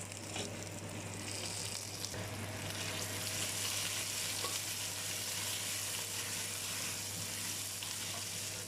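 Marinated chicken pieces sizzling in a hot pan of peanut oil with onion, a steady sizzle that grows louder a couple of seconds in. A low steady hum runs underneath.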